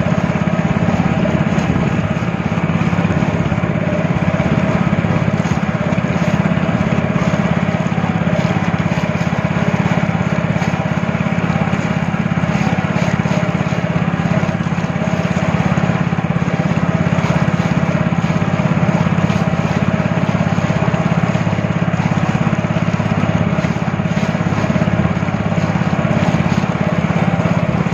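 Speedboat engine running at a steady pitch while the boat is under way.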